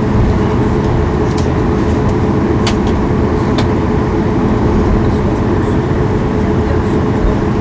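Steady cabin noise inside a Boeing 737 MAX 8 with CFM LEAP-1B engines, heard from a forward window seat: an even, loud rumble of engines and airframe, with a few faint clicks.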